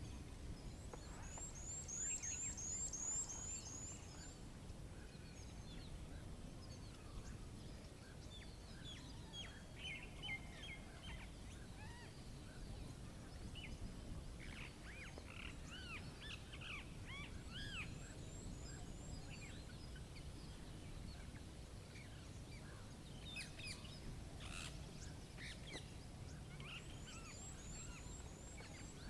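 Several wild birds chirping and calling in a soft nature ambience, over a faint steady low rumble. A rapid series of high, quick descending notes comes three times: near the start, about two-thirds through, and near the end.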